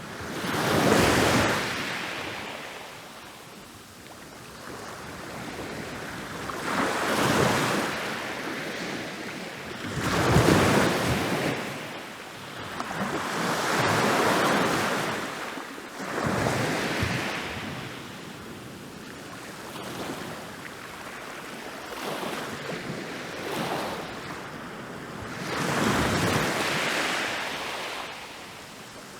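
Ocean waves rolling in and breaking on a beach, one surge of surf every few seconds, each swelling to a crash and washing away.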